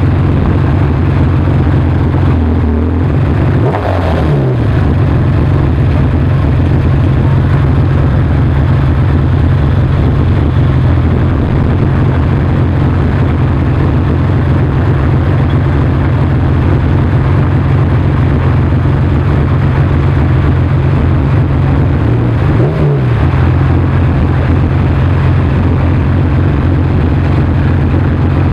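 McLaren F1's BMW V12 idling steadily, with two brief revs, one about four seconds in and another after about twenty seconds.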